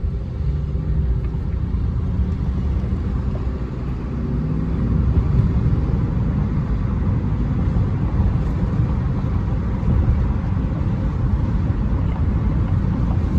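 Road and engine noise inside a moving car: a steady low rumble that grows a little louder about five seconds in.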